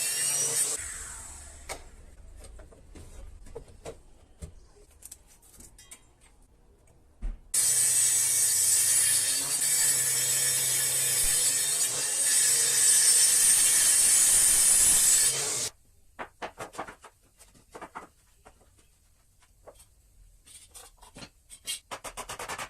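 A power tool working wood. It winds down just after the start, then runs steadily for about eight seconds from around seven seconds in and stops sharply. Scattered knocks and clatter of handled boards fall between the runs, with quicker tapping near the end.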